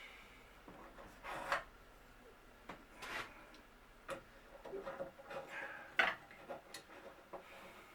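Scattered light clicks, taps and short scrapes of wooden cabinet parts and hardware being handled, with one sharper knock about six seconds in.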